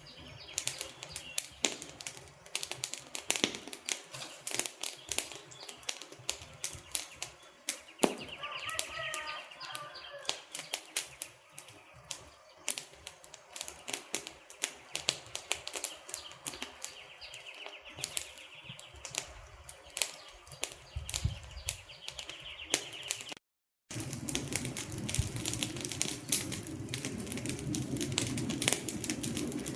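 Wood fire crackling, with a steady stream of irregular sharp pops and snaps. About three-quarters of the way through it cuts out for half a second, then carries on with a fuller, deeper rumble under the crackle.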